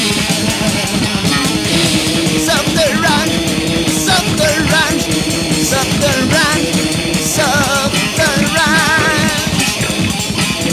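Rock music from a band with guitar, playing steadily and loud. A wavering, bending lead line comes in over the band about two and a half seconds in.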